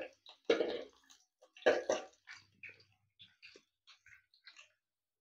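Curry leaves, ginger and garlic frying in hot oil in a pan, with irregular crackles and spits. The loudest come in the first two seconds, then fainter, sparser pops.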